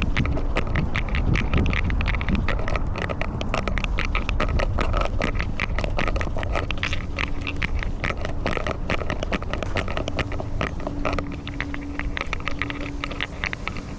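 A camera on a cat's collar jostled as the cat moves: a dense, irregular run of clicks, jingles and scrapes from the collar, over a low rumble of rubbing against the microphone.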